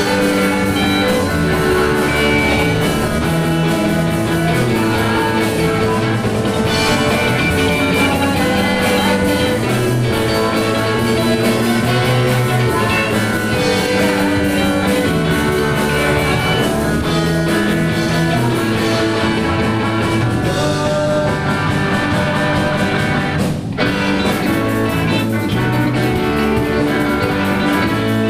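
A band playing rock music, with guitar to the fore; the sound dips for an instant about four-fifths of the way through.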